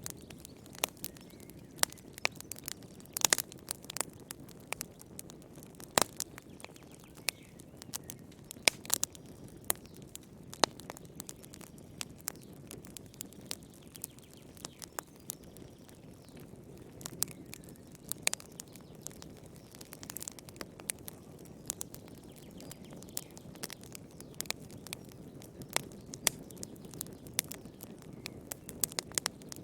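Wood fire burning in a fireplace, crackling with irregular sharp pops over a low steady rush of flame.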